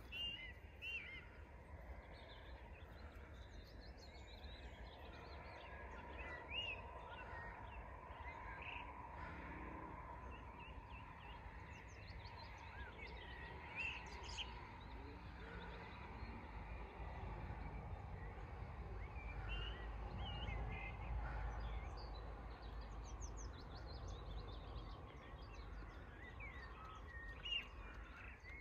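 Faint birdsong outdoors: several birds giving scattered short chirps and whistles over a steady low rumble of outdoor background noise.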